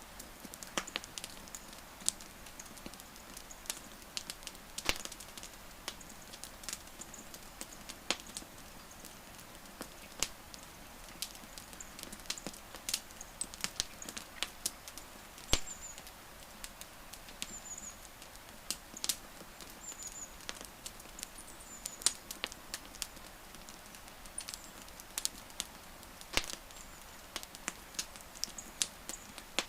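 Wood fire crackling: a soft steady hiss broken by irregular sharp pops and snaps, a few of them loud. A few faint, short high chirps come through in the middle.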